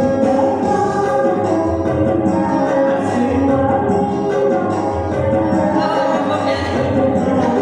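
Music: a young woman's solo voice singing a pop song over a backing track with a steady bass beat.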